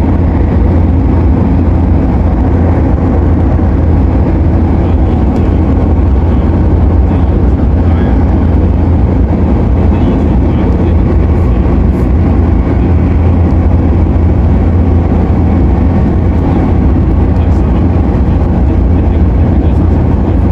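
Cabin noise inside a CAF-built MTR Airport Express train while it runs: a loud, steady low rumble with a few steady hum tones above it.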